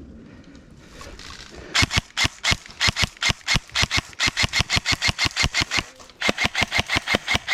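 Paintball marker firing rapidly, about five shots a second in a long string, with a brief break about six seconds in before the shooting resumes.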